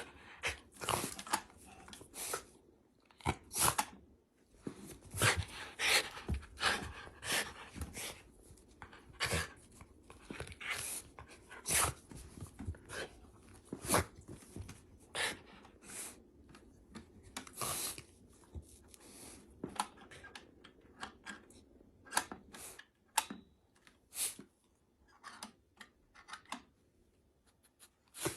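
Irregular short scratching, rustling and tearing noises, uneven in spacing, with quiet gaps between them.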